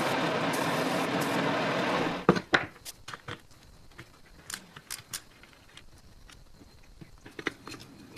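A motor-driven machine or power tool runs with a steady noise and shuts off abruptly about two seconds in. Scattered light clicks and knocks follow, as of parts or tools being handled.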